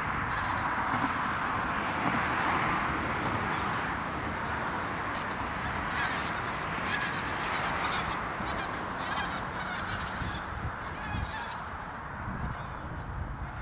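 A large flock of migratory waterbirds calling all together, a continuous din of many overlapping calls with no break.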